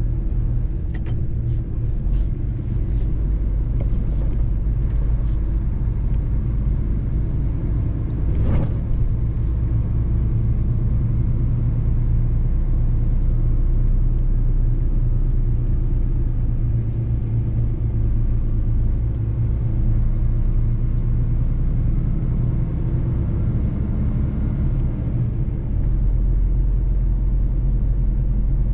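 Mercedes-Benz truck's diesel engine running steadily under way, a continuous low drone with road rumble. A few light clicks in the first seconds and a single sharp knock about eight and a half seconds in.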